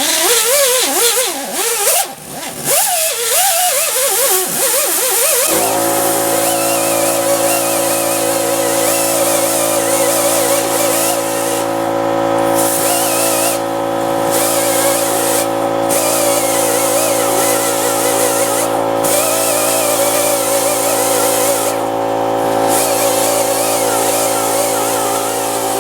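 Air die grinder running against a valve cover: a whine whose pitch wavers with the load, over a loud hiss of air and grinding, which drops out briefly several times. About five seconds in, a steady hum begins underneath and keeps going: the small electric air compressor starting up to refill its tank.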